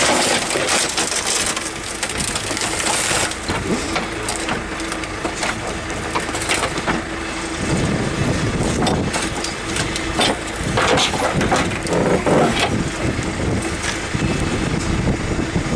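A backhoe bucket crushing a 1992 Honda Civic's body, with repeated crunching and cracking of metal and glass over the steady drone of the backhoe's engine.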